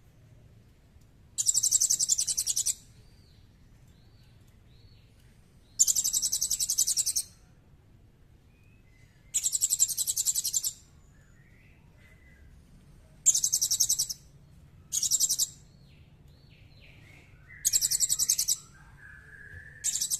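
A small songbird's high, rapid trill, repeated six times, each burst about a second long and a few seconds apart. Faint, softer chirps and slurred notes come in between.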